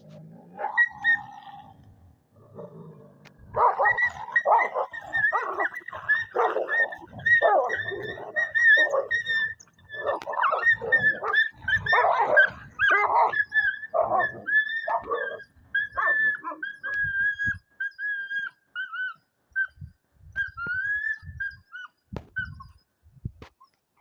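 A dog barking over and over for about twelve seconds, with a thin high whine running through the barks. After the barks stop the whine goes on in broken pieces.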